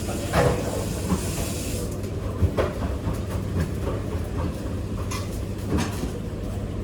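Kitchen clean-up noise: a steady low hum under scattered light knocks and clicks, with a brief hiss about a second in.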